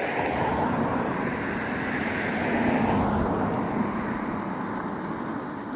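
An aircraft flying past: the engine noise swells to its loudest about three seconds in, then fades as the pitch drops.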